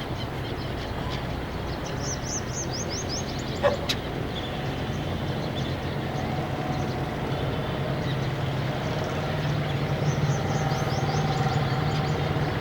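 A steady low hum, with a small bird giving two quick runs of high chirps, about two seconds in and again near ten seconds.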